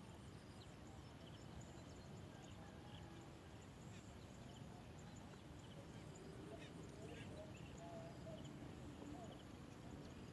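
Faint ambience with scattered short, high bird chirps over a low steady rumble.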